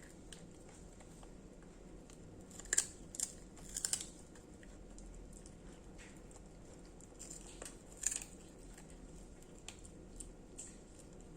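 Dogs crunching kerupuk kemplang, crisp fish crackers. Sharp crunches come about three to four seconds in and again about eight seconds in, with smaller crackles in between.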